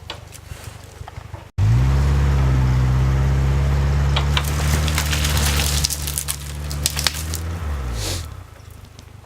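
GAZ-69's four-cylinder engine held at high revs under load, with crackling and snapping mixed in from about halfway through. It starts suddenly about a second and a half in and winds down near the end.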